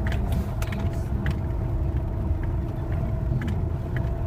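Moskvich 2140's 1.5-litre four-cylinder engine running steadily under load as the car drives through snow. Several short knocks and rattles sound over the drone, about a second apart near the start and twice more near the end.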